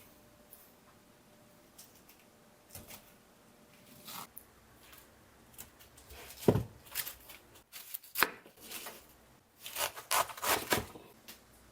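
Kitchen work: scattered knocks and rustling like a knife on a cutting board and food being handled, with the strongest strokes about six and a half seconds in and a busier cluster near the end.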